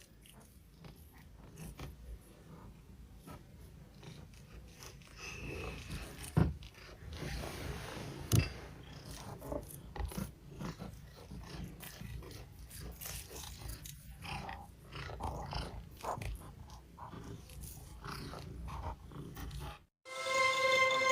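A cat purring steadily, with many short scratchy strokes over it and two sharper knocks about six and eight seconds in. Music starts near the end.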